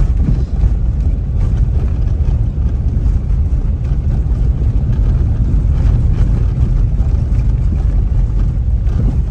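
Steady low rumble of a moving car, with engine and road noise heard from inside the cabin.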